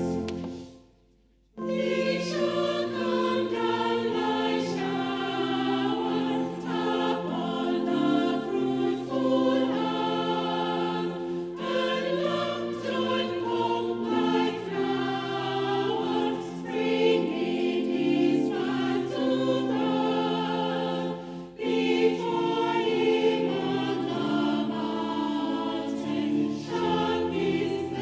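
Choir singing a hymn in sustained full chords, after a brief silent gap about a second in.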